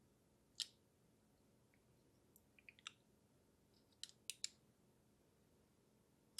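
Near silence broken by a few faint, sharp clicks of small handling: one about half a second in, a few soft ticks near the middle, and three quick clicks about four seconds in.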